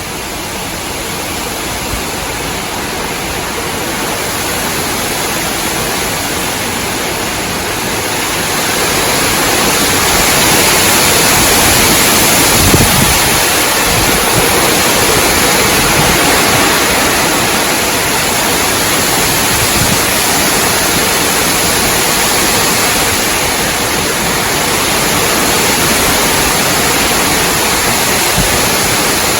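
Strong, gusty wind blowing through tree branches and leaves: a steady rush of noise that grows louder about a third of the way in. A brief low thump stands out near the middle.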